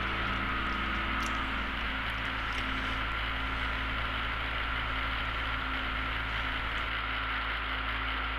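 Small propeller aircraft in flight, its engine and propeller making a steady drone with a constant hum and a thin steady tone above it, while the plane climbs at cruise power.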